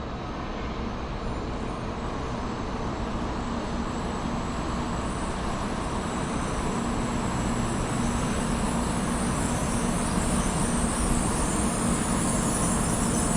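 Train running noise: a steady rumble and hiss that slowly grows louder.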